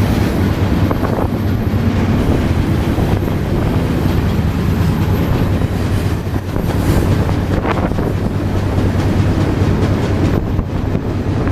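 Moving freight train heard from aboard a car: steady rumble of the wheels rolling on the rails, with a few sharp clanks.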